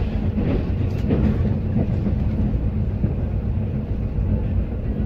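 Steady low rumble of a passenger rail coach running along the track, heard from inside the car, with a few faint knocks from the wheels.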